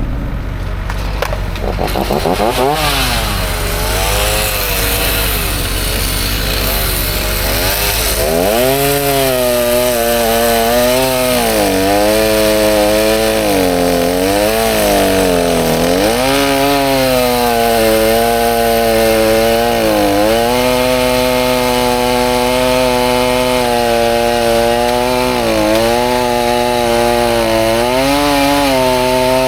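Two-stroke chainsaw cutting through a large log, its engine note dropping and climbing back again and again as the chain bogs down in the wood and recovers, then running steadier near the end.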